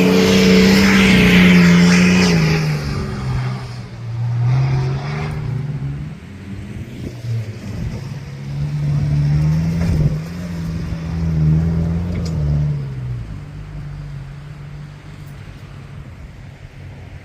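Four-wheel-drive's engine revving up and down while driving through soft beach sand, loudest in the first couple of seconds and easing off toward the end.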